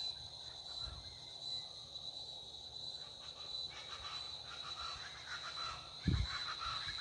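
Insects droning steadily in a single high-pitched trill, with scattered faint chirps joining from about halfway. A brief low thump comes about six seconds in.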